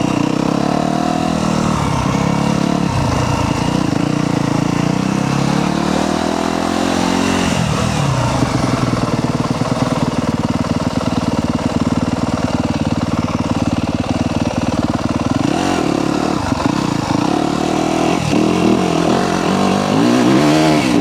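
Yamaha YZ250F dirt bike's single-cylinder four-stroke engine running while being ridden, the revs climbing and dropping through the gears. Near the end come a few quick throttle blips.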